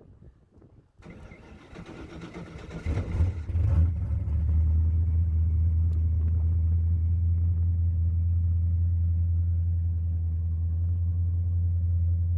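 Ford 5.0 (302) V8 engine starting up about three seconds in, then settling into a steady idle.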